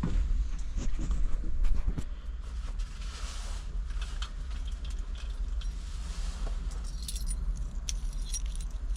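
A ring of keys jangling, clearest near the end, after a few sharp knocks in the first couple of seconds, over a steady deep rumble.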